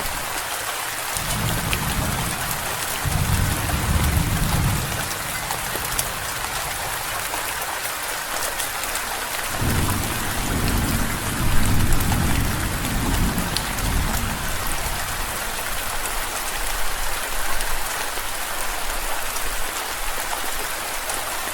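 Steady rain, with two low rolls of thunder: one starting about two seconds in and one about ten seconds in, each rumbling for several seconds.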